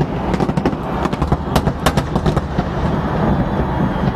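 Fireworks display going off in rapid succession: a dense run of sharp bangs and crackles, thickest about one and a half to two and a half seconds in, over a continuous low rumble of explosions.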